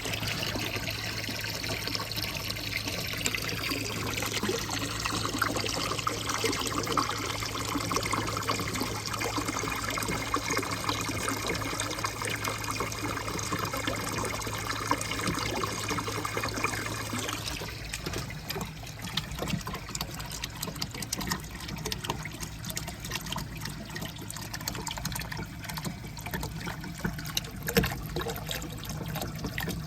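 Water trickling and running steadily through a handmade marble-run course, with a low steady hum that stops a little over halfway through, leaving a thinner trickle with scattered small ticks.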